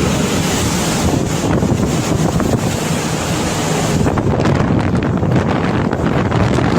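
Loud, steady rushing of a flash-flood torrent, with wind buffeting the microphone. The hiss turns duller about four seconds in.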